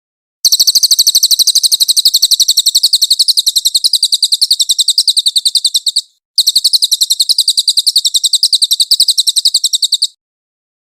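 Cililin songbird singing a long, rapid-fire trill of high, evenly repeated notes, about a dozen a second, breaking off briefly about six seconds in and then carrying on for about four seconds more before stopping.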